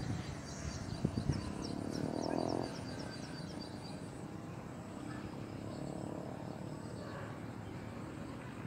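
Swiftlets twittering: a run of short, high chirps at about four a second over the first few seconds, over a steady high-pitched background. A couple of dull knocks come about a second in, and a brief low rasping buzz follows around two seconds in.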